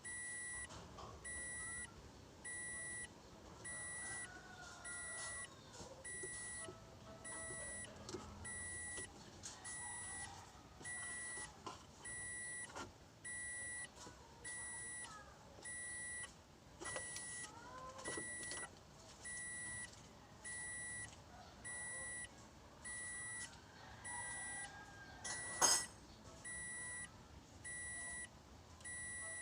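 An electronic warning beep sounding steadily about once a second, with faint scattered clanks and clicks of work, and one sharp knock near the end.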